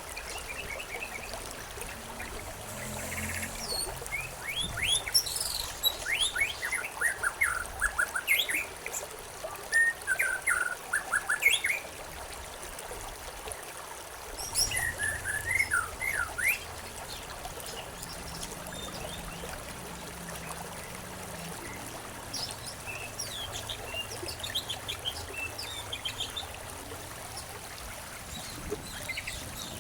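Songbirds chirping and singing in quick runs of short notes over a steady trickle of running water. The birdsong is busiest in the first half and thins out in the second.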